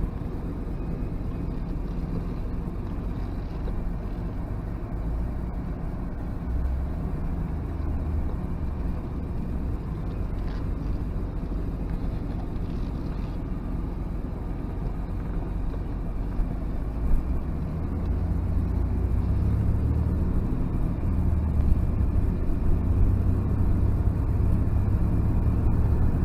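Cabin sound of a 1990 Nissan 300ZX twin turbo with automatic transmission pulling away and driving: a steady low rumble of its 3.0-litre twin-turbo V6 and road noise, the engine not yet fully warm. The rumble grows louder about two-thirds of the way in as the car picks up speed.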